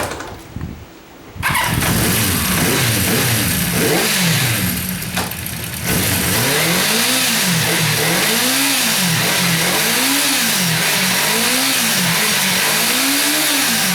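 Honda CB400FOUR's 408cc air-cooled inline-four engine catching about a second and a half in and running. It is then revved in a steady series of blips, its pitch rising and falling about every one and a half seconds.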